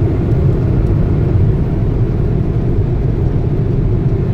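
Automatic car wash machinery heard from inside the truck's cabin: a loud, steady low rumble.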